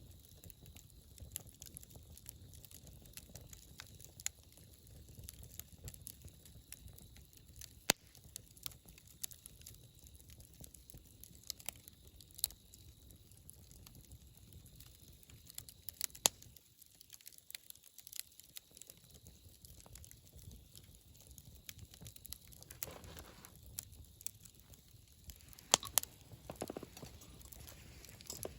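Wood fire crackling: irregular sharp pops and snaps over a faint low rumble, with a few louder pops about 8 s, 16 s and near the end.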